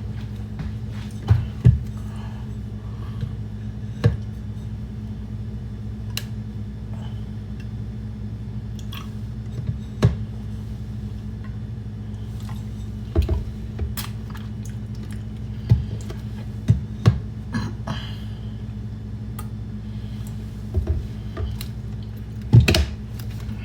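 Sparse light clicks and knocks from objects being handled in a kitchen while making coffee, a few each second at most, with the louder taps about a second in, near the middle and near the end, over a steady low hum.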